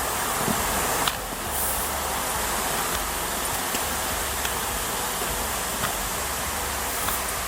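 Steady rushing noise of water falling at a waterfall, with a few faint ticks.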